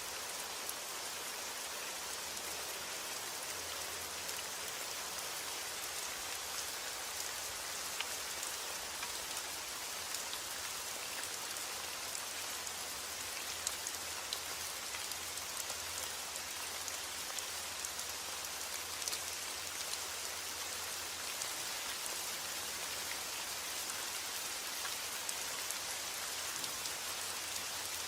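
Steady heavy rain falling on a roof: a constant hiss with scattered individual drops ticking through it.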